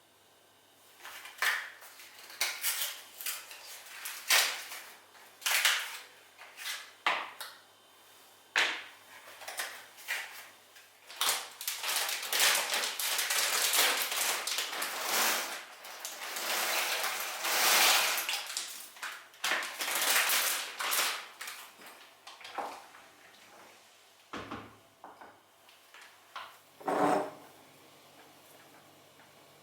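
Kitchen handling sounds: dishes and utensils knocking and clinking, with a few longer stretches of hiss in the middle, then only a couple of knocks near the end.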